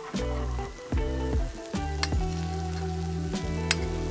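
Asparagus and garlic sizzling in olive oil on a steel flat-top griddle, a steady frying hiss with a couple of sharp taps, under background music.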